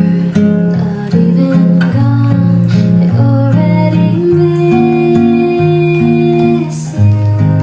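Acoustic guitar playing a slow chord progression, an instrumental passage with no singing, with one long held note near the middle.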